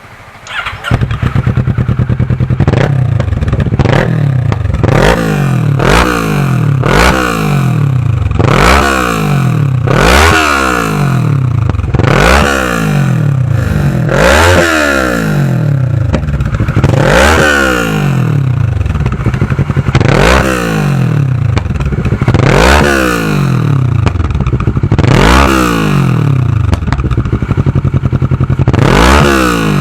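Kawasaki ER-6's 650 cc parallel-twin engine breathing through an aftermarket full-system exhaust with an Akrapovic tail pipe, blipped about a dozen times, each rev rising and falling in pitch. The engine sound starts suddenly about a second in.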